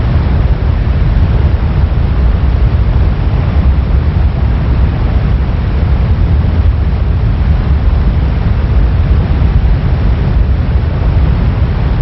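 Silver Run Falls rushing: a loud, steady roar of falling water, heaviest in the low end.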